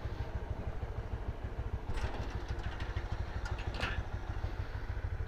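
Honda CB150R's single-cylinder engine idling steadily with a fast, even low pulse while the motorcycle stands still. A few faint clicks come about two and four seconds in.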